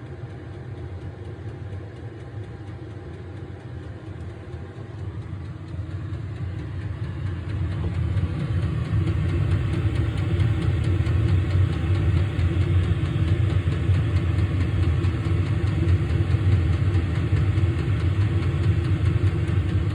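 Diesel air heater running after ignition, its fan and burner ramping up over several seconds to a steady whir on fan setting 3.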